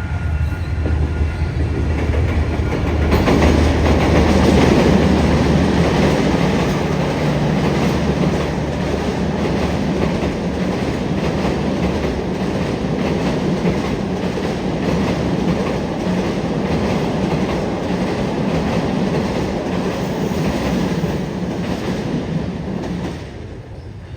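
A diesel-hauled train passing close by: a low engine hum at first, then the cars rolling past with a steady, rhythmic clickety-clack of wheels over the rail joints, dropping away near the end.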